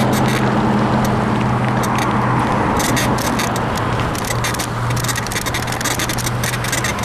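Bicycle ridden over rough pavement, its frame creaking and rattling in quick, irregular clicks: the creak the rider puts down to a worn suspension bushing. A motor vehicle's steady engine hum runs underneath.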